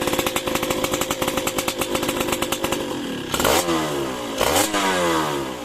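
Yamaha F1ZR's two-stroke single-cylinder engine, fitted with an oversize-50 RXS piston, running through its exhaust at a fast idle. About halfway through it is blipped twice, a second apart, the pitch rising and falling back each time, then it fades out.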